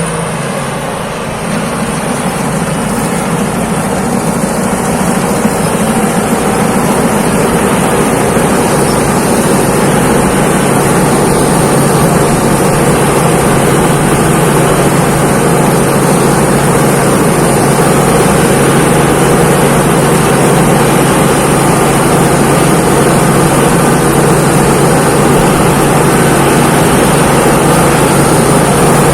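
Thai Seng Yont rice combine harvester running steadily under load while harvesting, its engine hum and machinery loud and continuous, swelling slightly in the first few seconds, with a faint high steady whine.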